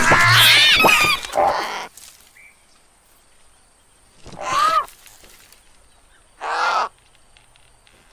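A loud jumble of high squeals and squawks for about two seconds, then two single harsh crow caws about two seconds apart.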